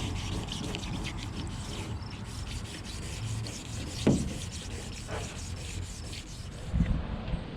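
Sandpaper rubbing on a primed aluminum boat hull in quick repeated strokes: wet sanding sandable primer with 800-grit wet/dry paper. A brief squeak comes about four seconds in, and a few low thumps near the end.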